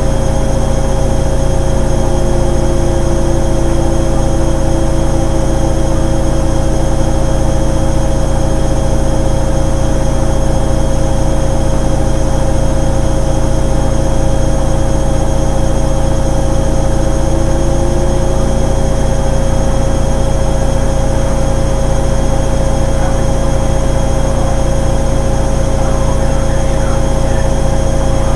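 Hoover Ecologic 800 automatic washing machine running on its rinse cycle, with a steady heavy hum. A motor whine comes in a couple of seconds in and fades out about two-thirds of the way through.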